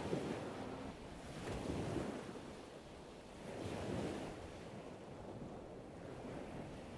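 Lake water lapping and washing in slow swells, with the hum of a passing motorboat's engine dying away in the first second.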